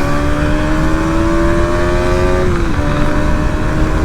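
KTM Duke 200's single-cylinder engine pulling under acceleration, its pitch rising steadily and then dropping sharply about two and a half seconds in, as on an upshift, before running on steady.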